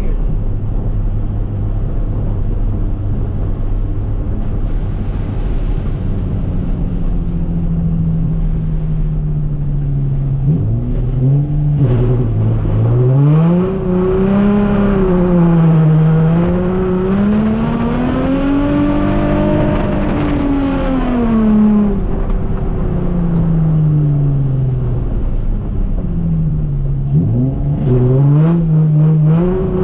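Nissan 350Z's 3.5-litre V6 engine under throttle. Its pitch holds steady at first, then drops sharply about a third of the way in and climbs and falls in long swells as the revs rise and ease, with another sharp drop and climb near the end.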